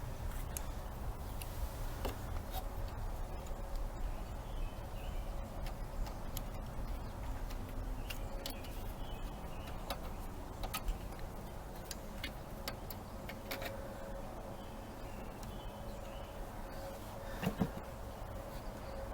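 Scattered light clicks and taps of small parts and tools being handled during reassembly of a string trimmer's carburetor, over a steady low hum, with a louder pair of knocks near the end.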